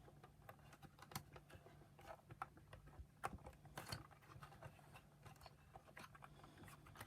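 Faint, irregular small clicks and taps of hands working small plastic parts, pushing wire terminals into a tight plastic connector housing, over a faint steady low hum.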